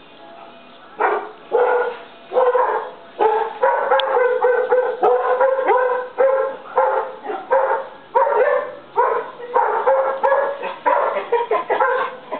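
Two dogs barking rapidly and repeatedly, about two barks a second, starting about a second in. The owner takes it that they had smelled an animal nearby.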